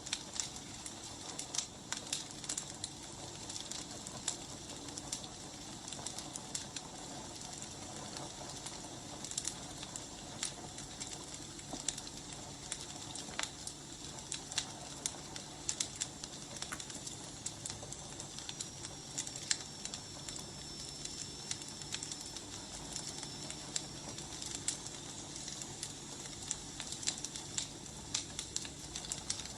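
Wood fire burning: a steady hiss with frequent irregular crackles and pops from the logs. In the second half a faint high whistle dips and rises for several seconds.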